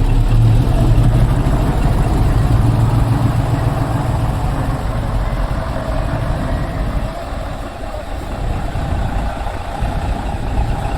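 Diesel engine of a decorated dump truck running as it pulls in. The low engine note is strongest for the first few seconds and eases off about seven seconds in.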